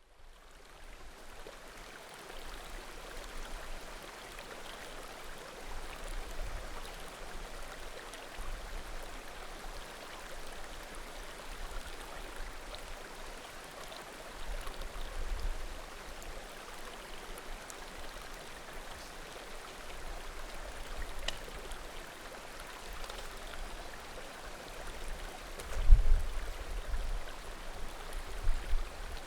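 Small mountain creek flowing steadily, with an occasional faint crackle of burning firewood. A few low rumbles come and go, the loudest near the end.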